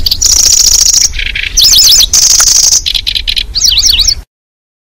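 Recorded song of the kecici belalang played as a bird lure: high, buzzy, insect-like trills alternating with quick swooping whistled notes, cutting off abruptly about four seconds in.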